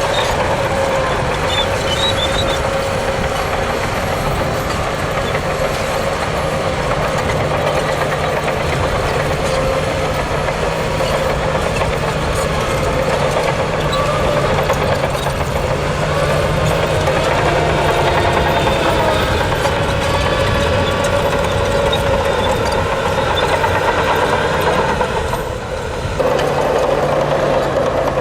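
Heavy diesel earthmoving machinery, bulldozer and dump truck engines, running steadily under load. The sound dips briefly near the end and then comes back suddenly.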